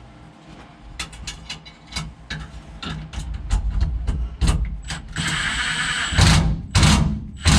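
Bolts being fastened with tools: a run of irregular metal clicks and knocks, then about five seconds in a tool runs steadily for nearly a second, followed by three short loud bursts.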